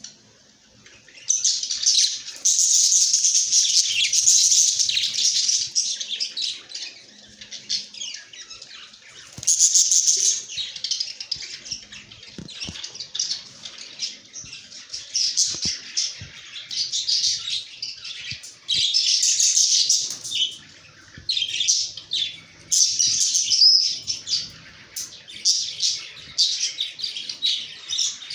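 A flock of budgerigars chattering and chirping continuously, many birds calling over one another in quick, high warbles.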